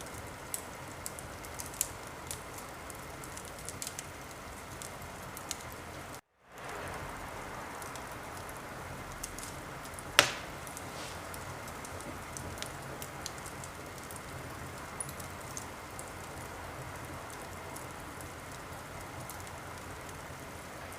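Wood fire crackling in a fireplace: a steady hiss with scattered small crackles and one loud pop about ten seconds in. The sound cuts out for a moment about six seconds in, then fades back.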